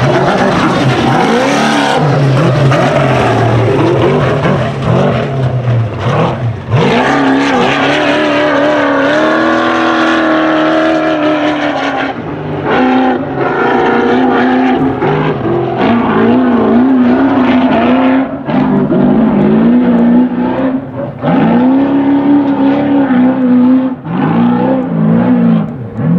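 Desert race truck engine at high revs, the pitch climbing, falling and dipping again and again as the throttle comes on and off over rough ground.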